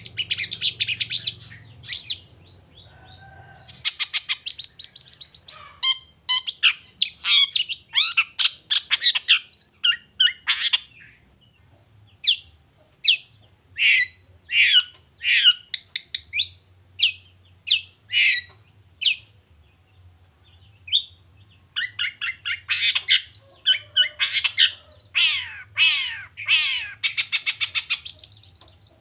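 Long-tailed shrike (cendet) singing in runs of fast, sharp, high notes, many falling in pitch. The song is a dense rapid chatter at the start, then spaced single notes in the middle. After a pause, it returns to a dense chatter near the end.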